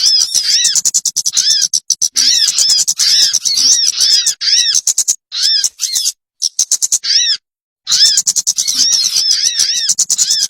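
Recorded bird-lure (pikat) call: a rapid string of harsh, arching chirps, about four a second, played in looped stretches that cut off abruptly twice in the middle.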